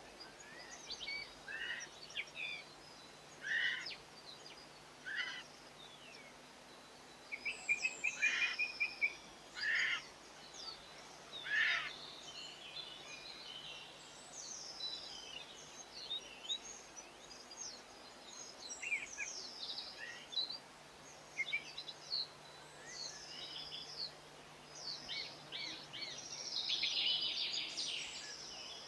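Several small songbirds chirping and twittering in a busy mix of short calls. There is a quick trill about eight seconds in and a denser burst of twittering near the end, over a faint steady hum.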